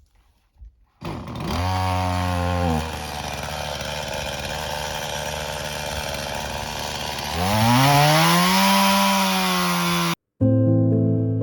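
Chainsaw revved up, dropping back to a lower, steadier pitch for a few seconds, then revved up again. It cuts off suddenly near the end, and piano music begins.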